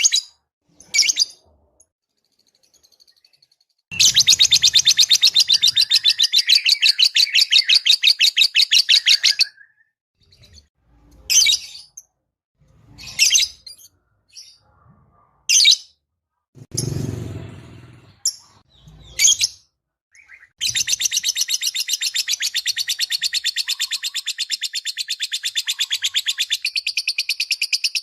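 Lovebird song used as a lure call. A few seconds in comes a long run of rapid, high chirps repeated many times a second, then a string of short single chirps. A second long, rapid chatter starts about three-quarters of the way through.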